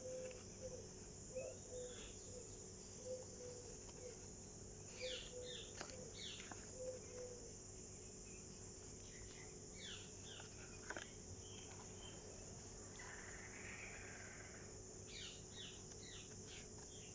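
Faint outdoor ambience of birds calling, in short runs of quick falling high notes, over a steady high hiss. A lower note repeats about three times a second through the first seven seconds or so.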